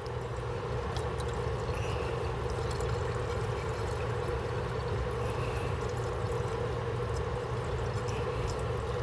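Water being poured steadily into an air conditioner's PVC condensate drain trap to flush a stopped-up drain line. It makes a continuous, even pouring sound with a steady note.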